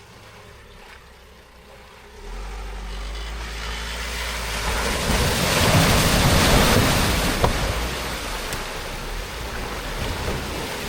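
A 4x4 driving through a deep water crossing. Engine rumble comes in about two seconds in, and a rush of splashing water builds to its loudest around the middle, then eases off.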